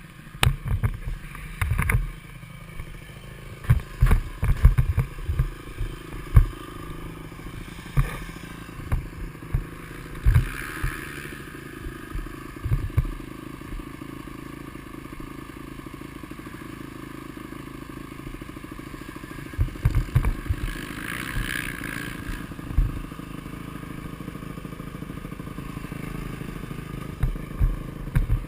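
Motocross dirt bike engine running, with repeated low thumps and buffeting coming in clusters and the engine note rising briefly a couple of times.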